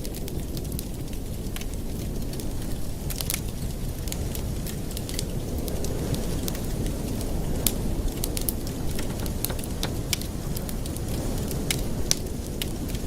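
Wood fire in a fireplace crackling: sharp pops at irregular intervals over a steady low rumble.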